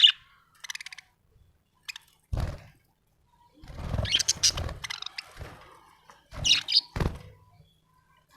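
Budgerigar chirping in short, scattered bursts, mixed with a few dull thumps.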